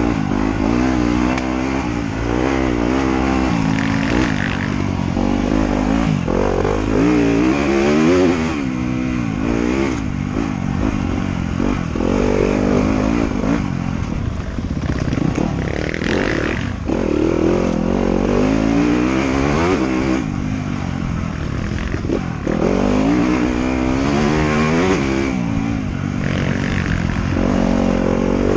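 Trail motorcycle engine being ridden hard, revving up and down continuously as the throttle opens and closes, its pitch rising and falling every second or two.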